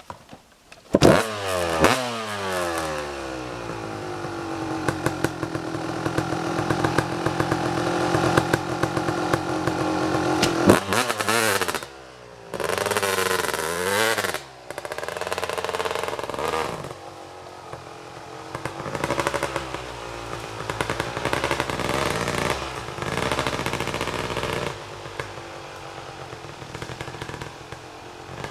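Kawasaki KX250 two-stroke dirt bike engine starting about a second in and revving, then dropping to a steady run. Through the rest the revs rise and fall repeatedly, with a few brief dips.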